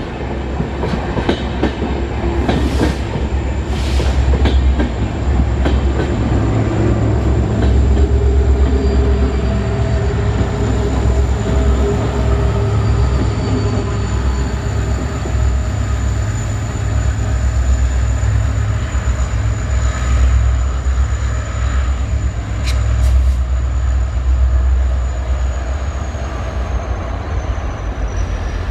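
Train running close by: coaches rumble heavily over the rails with a clickety-clack of wheels on rail joints, and the deep engine drone of a WDG4 diesel locomotive passes. A thin high whine runs over it and drops slightly in pitch near the end.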